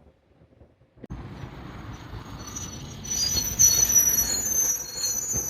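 Train wheels squealing against the rails over a rumbling train, the high, wavering squeal building from about halfway. The sound comes in abruptly about a second in, after a click and a moment of quiet.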